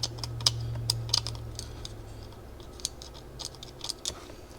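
Light, irregular clicks and taps of small carburetor parts being handled and fitted back into place. A low steady hum underneath fades out about halfway through.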